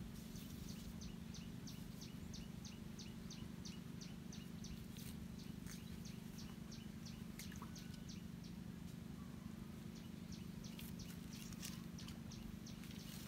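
A bird calling a rapid, even series of short high chirps, about two or three a second. The series breaks off about seven seconds in and starts again near the end, over a steady low hum.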